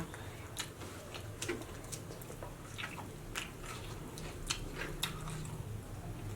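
Close-up mouth sounds of a person chewing and biting food, with irregular wet smacks and crisp clicks every half second or so. A low steady hum runs underneath.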